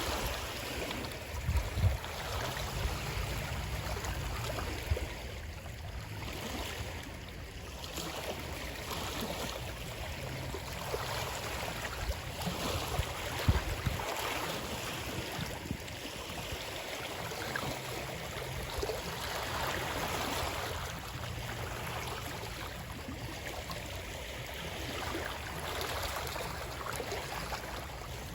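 Running water, a steady uneven rush and splash, with a few louder low thumps about two seconds in and again near the middle.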